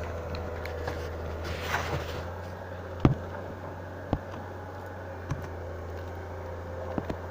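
A steady low hum with a few sharp knocks, the loudest about three seconds in.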